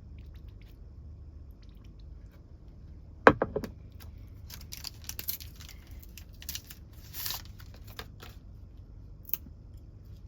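Food packaging being handled and opened: a sharp knock about three seconds in, then a run of crinkling and rustling that stops about eight seconds in. A low, steady rumble lies underneath.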